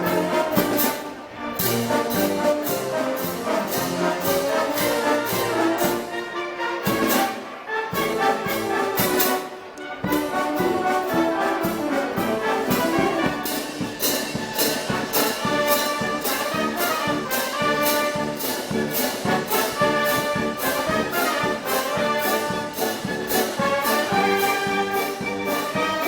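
Brass band music: trumpets, trombones and other brass over a steady drum beat, with brief breaks in the phrasing in the first ten seconds.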